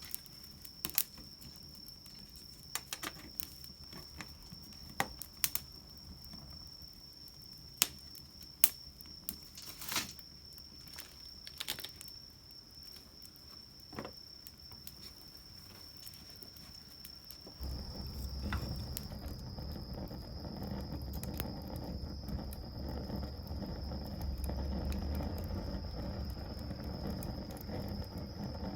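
Small wood fire crackling, with scattered sharp pops. A steady high-pitched tone runs underneath, and about two-thirds of the way in a steady low rumbling noise comes in.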